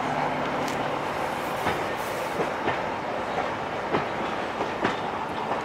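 Railway passenger coaches rolling past, a steady rumble with the wheels clicking sharply over the track joints several times at irregular intervals.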